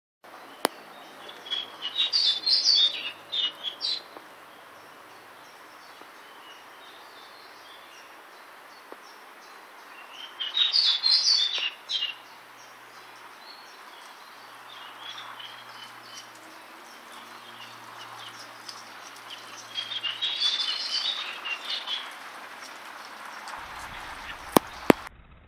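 A songbird singing short chirping phrases three times, roughly nine seconds apart, over a steady hiss. Two sharp clicks come near the end.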